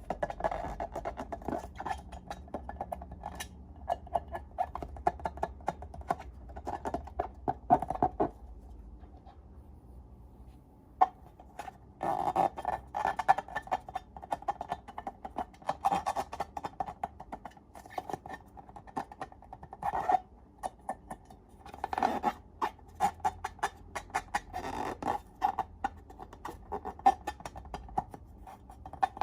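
Slime being worked and squished: wet, sticky clicking and squelching in bursts, with a quieter pause of a few seconds about a third of the way through.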